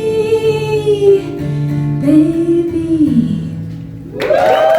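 Live female vocal with acoustic guitar ending a song: a long held sung note slowly falls away, then a lower sung note. Near the end a loud strummed guitar chord comes in suddenly and rings.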